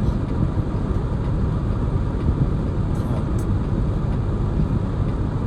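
Steady low rumble inside the cab of a Peterbilt 579 semi-truck, its engine and drivetrain running evenly.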